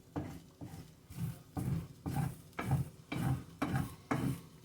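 Wooden spoon stirring and scraping flour around a hot pan in a steady back-and-forth, about two strokes a second, while the flour browns for a roux-based gravy.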